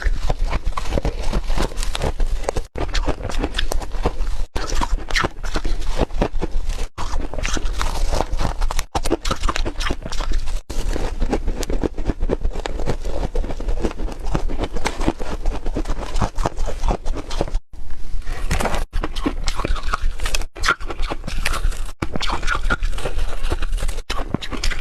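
A person biting and chewing hard, refrozen ice: a dense, continuous run of crunches and cracks.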